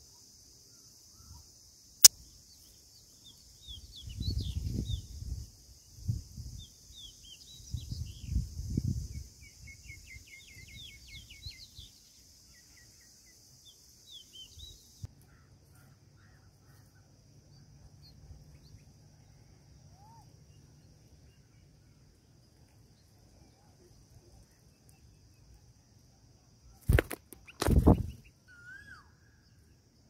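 Small birds chirping in quick, high, thin runs, with low rumbling thuds under the first half and two loud thumps near the end.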